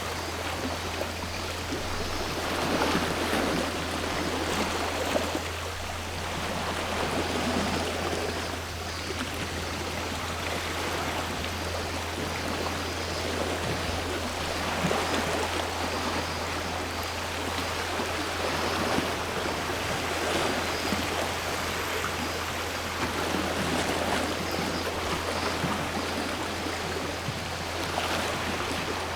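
Sea waves washing in on the shore, the rush swelling and easing every few seconds.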